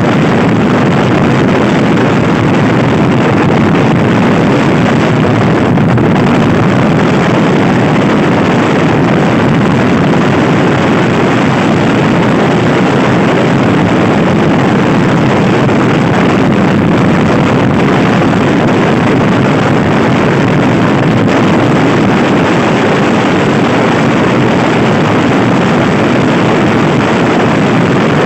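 Loud, steady wind rushing over the microphone of a Honda Scoopy-i scooter ridden hard, with the scooter's engine running under it.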